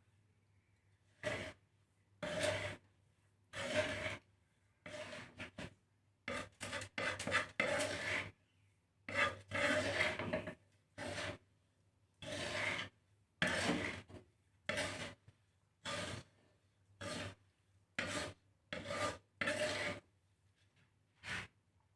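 A spatula scraping and stirring a mix of millet, foxtail millet and black glutinous rice as it is dry-roasted in a pan, in uneven strokes of about one a second with short gaps between.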